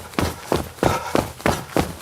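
A runner's footsteps, striking the ground at a steady jogging pace of about three steps a second.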